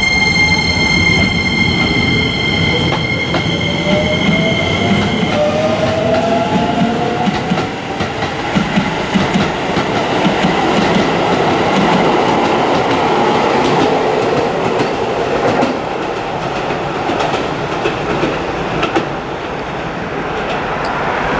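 Keisei 3000 series train's Toyo IGBT-VVVF inverter and traction motors under power, on the early software before the update. A steady high-pitched whine holds for about five seconds and then stops, while a lower tone rises in pitch as the train gathers speed, over the rumble of wheels on rail.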